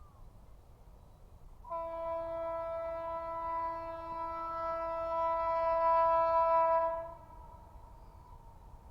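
Electric locomotive horn sounding one long, steady blast of about five seconds, starting a little under two seconds in and cutting off sharply, over a faint low rumble.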